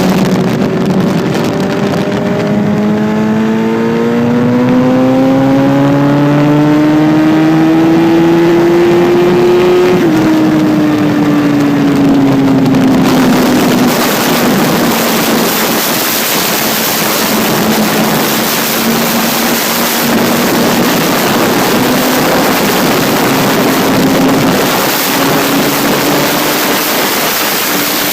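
Vehicle engine pulling hard under acceleration in third gear, its pitch rising steadily, then dropping sharply at the shift to fourth about ten seconds in and climbing again more slowly. Loud wind noise builds up from about a third of the way in as speed rises.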